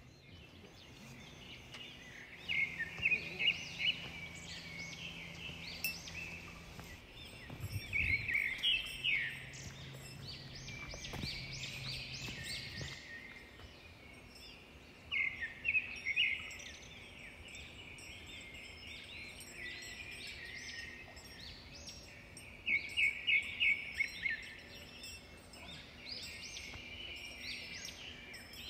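Wild birds calling outdoors: four loud bursts of quick, rapid chirps a few seconds apart, with softer chirping in between. A faint low hum sits under the first half.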